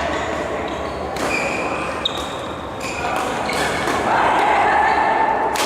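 Badminton rally: rackets striking a shuttlecock, several sharp hits a second or two apart, with short squeaks from court shoes, echoing in a large hall.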